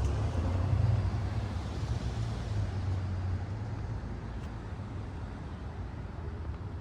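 Car driving at speed: steady road noise with a low rumble and a wash of tyre and wind noise.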